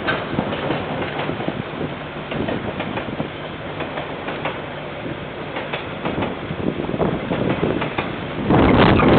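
Container freight train wagons rolling past on the rails: a steady rumble with irregular wheel clicks over the rail joints. Near the end a louder rush of noise swells over it.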